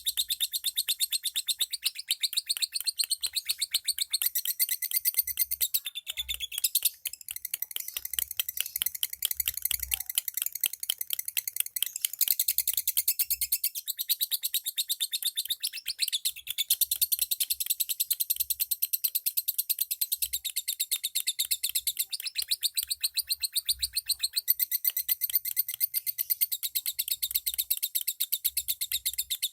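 Lovebirds chirping in a rapid, continuous, high-pitched chatter.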